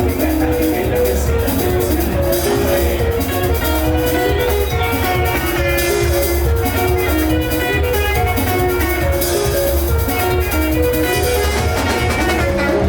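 Band music: quick runs of plucked guitar-like melody notes over a heavy bass line and steady drums.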